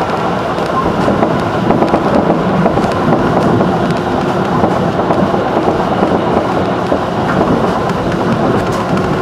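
A JR 211 series electric train running at speed, heard from inside the passenger car: a steady rumble of wheels on rail with scattered faint clicks.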